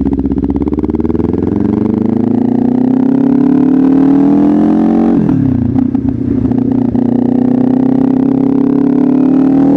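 Kawasaki Ninja 500 parallel-twin engine running through an aftermarket exhaust, the revs climbing steadily. About five seconds in the pitch drops sharply with a few crackles, then climbs again.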